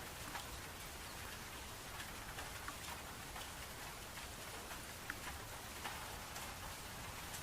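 Steady rain falling: a constant hiss with scattered sharp drips of individual raindrops.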